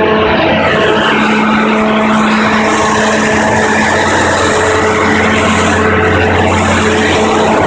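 Onan 30EK natural-gas standby generator running steadily with an even engine hum, a high hiss joining in under a second in.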